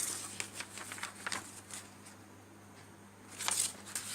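Sheet of paper being handled and folded by hand: soft, scattered rustles and crinkles, with a louder rustle about three and a half seconds in.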